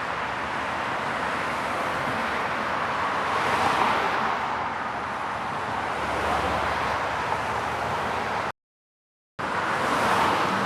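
Traffic sound effect of cars passing by on a road: steady tyre and engine noise with louder pass-bys swelling about four seconds in and again near the end. It cuts out to silence for under a second shortly before the second pass-by.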